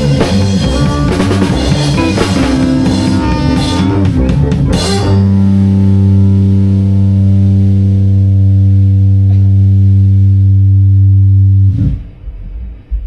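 Live improvised rock jam with drum kit and electric guitar playing busily with cymbal crashes. About five seconds in the drumming stops and a single low note rings on steadily for about seven seconds, then cuts off suddenly, leaving a few quieter hits near the end.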